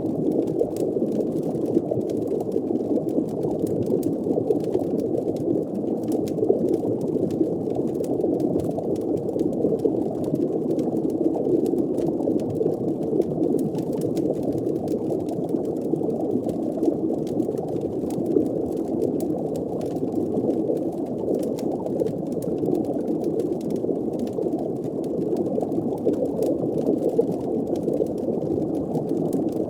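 Underwater ambience: a steady, muffled low rush of water with bubbling, sprinkled with faint scattered fire crackles.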